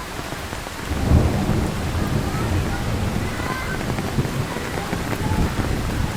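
Thunder rumbling under steady heavy rain. The rumble swells about a second in and keeps rolling beneath the rain's hiss.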